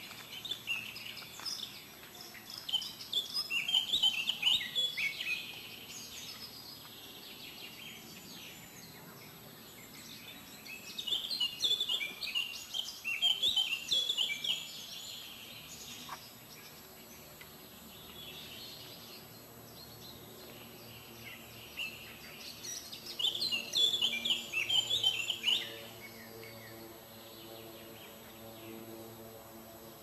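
A songbird singing three bursts of quick, jumbled high chirps, each about three seconds long and roughly ten seconds apart, over a steady outdoor background with a faint low hum.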